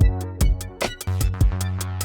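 Electronic beat played on an Akai MPC Live 3 sampler: kick drum hits and quick hi-hat ticks over a held bass note and chord, the notes changing about a second in.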